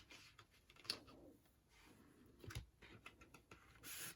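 Faint handling of a CD album's packaging: a few soft clicks and light rubbing and rustling of card and plastic, with a short rustle near the end.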